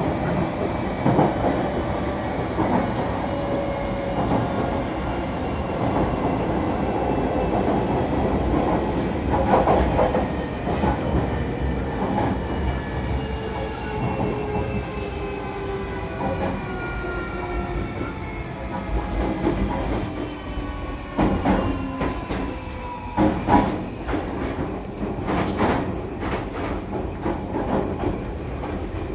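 Onboard running sound of a JR Kyushu 305 series EMU motor car: several VVVF inverter and traction motor tones fall steadily in pitch as the train slows, over the rumble of wheels on rail. Sharp clacks of the wheels over rail joints or points come in a cluster about two-thirds of the way through.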